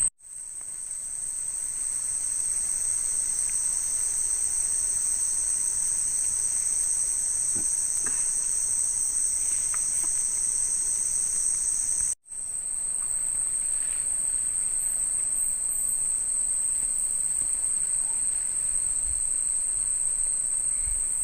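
Night insect chorus in tropical forest: a steady, shrill, high-pitched trill with no let-up. Twice it cuts out abruptly and fades back in, at the start and about twelve seconds in.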